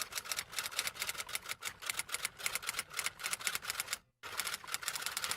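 Rapid typewriter-style typing: a fast, even run of key strikes, stopping briefly about four seconds in and then going on.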